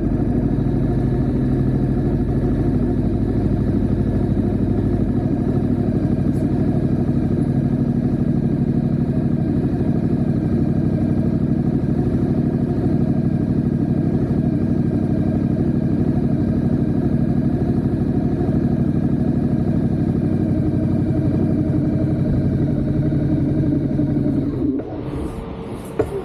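Ducati Diavel 1260S's 1262 cc Testastretta V-twin engine running steadily at a fairly even pitch, heard close from the back of the bike. Near the end the engine sound drops away sharply, followed by a single sharp click.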